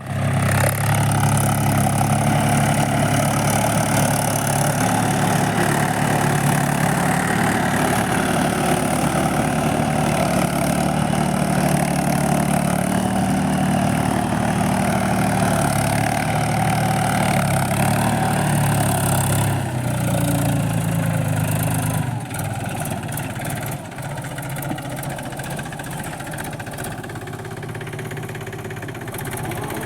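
Diesel tractor engine running steadily. About twenty seconds in, the low engine note drops away and a quieter clattering, rattling sound carries on.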